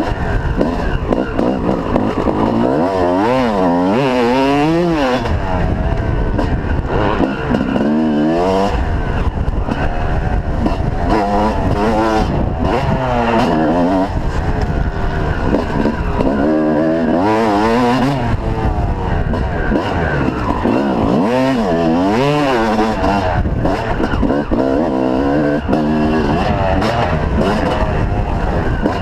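Motocross dirt bike engine revving hard, its pitch repeatedly rising and dropping back as the throttle opens and closes and the rider shifts, over a steady low rumble.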